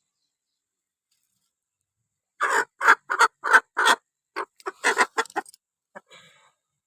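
Aseel chicken giving a quick run of about ten short, harsh clucks over some three seconds, starting a couple of seconds in and trailing off into a few faint ones near the end.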